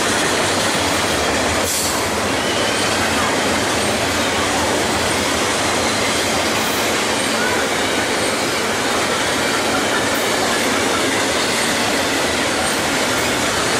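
BNSF intermodal stack train rolling past: a steady, loud rumble of freight-car wheels on the rails, with faint wheel squeal.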